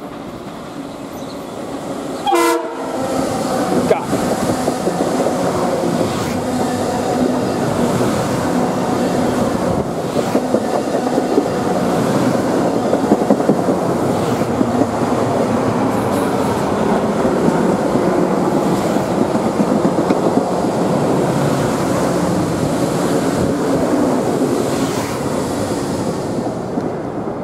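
Long Island Rail Road Budd M3 electric multiple-unit train sounds one short horn blast about two seconds in, then runs close past into the station with a loud, steady rumble of wheels on rail and occasional clicks over rail joints, easing off near the end.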